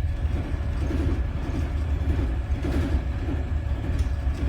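A towboat's diesel engines running with a steady low rumble while manoeuvring the barge tow.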